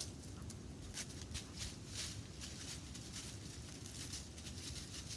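Wind rumbling across the microphone, with scattered short rustles and crackles throughout.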